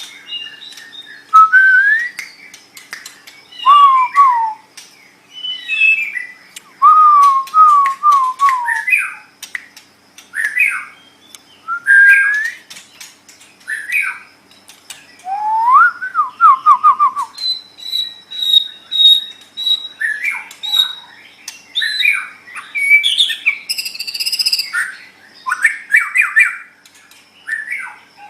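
White-rumped shama (murai batu) singing: loud, varied whistled phrases with rising and falling slides and quick trills, separated by short pauses. Partway through comes a run of even, high repeated notes.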